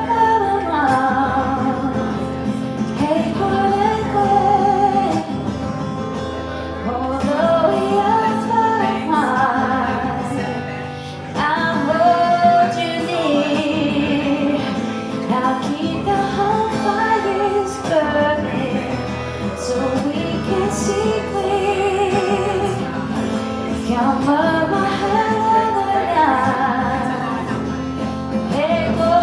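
A woman singing a slow melody to acoustic guitar accompaniment.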